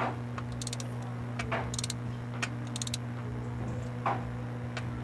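Socket ratchet clicking in short bursts while bolting a transmission back onto the engine, with a few sharp metallic knocks, over a steady low hum.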